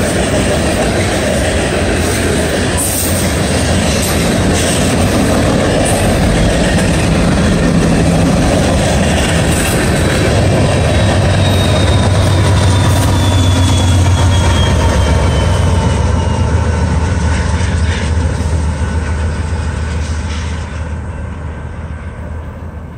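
Freight train of covered hoppers rolling past, with steel wheels rumbling and clattering on the rail joints. About halfway through, a mid-train diesel-electric DPU locomotive goes by, and its engine drone swells under the car noise; a thin, high wheel squeal slides slowly down in pitch. Near the end the sound fades as the train pulls away.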